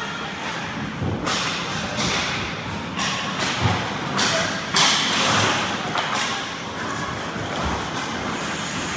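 Ice hockey play: a series of thuds and knocks from puck, sticks and players hitting the boards, with hissing bursts of skate blades scraping the ice. The loudest comes about five seconds in.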